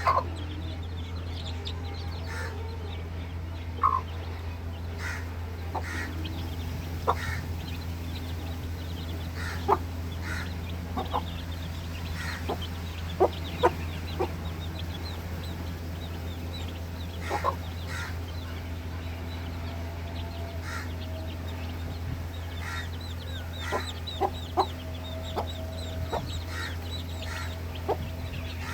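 Young parrot-beak (Kilimooku) gamefowl chicks clucking and calling in short, scattered calls, over a steady low hum.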